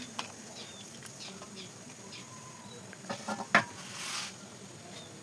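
Kitchen handling sounds as ingredients are added for a curry: a few light utensil clicks, one sharp tap about three and a half seconds in, then a brief rustling scrape.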